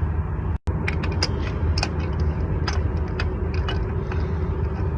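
Steady low mechanical hum with scattered light clicks and taps, cut by a brief dropout about half a second in.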